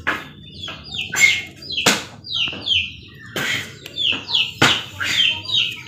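Small birds chirping over and over, each chirp a short falling note, in quick runs, with a few sharp clicks or taps mixed in.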